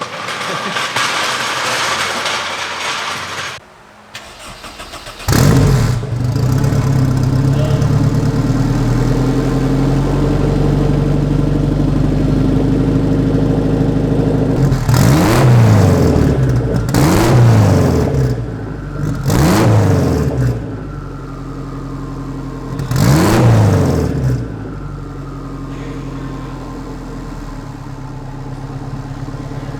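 Turbocharged Honda S2000 with a fender-exit exhaust starting up about five seconds in and settling to idle. It is then revved four times, each rev rising and falling back, and returns to idle.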